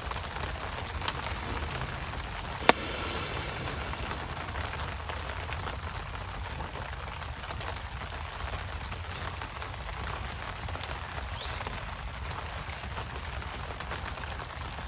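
Steady rain falling outdoors, with a few sharp cracks, the loudest about three seconds in.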